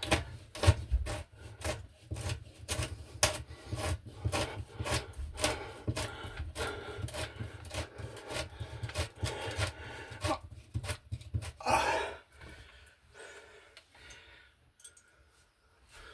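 A wall anchor and its screw being worked into drywall: a quick run of small clicks and scrapes, about three or four a second, for about ten seconds, then one longer scrape near twelve seconds and a few faint taps.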